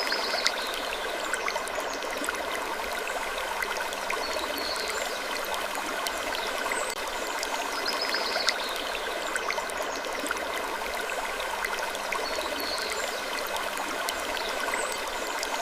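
Steady rushing, trickling ambience scattered with many small clicks, with a short high-pitched creak-like sound recurring every few seconds.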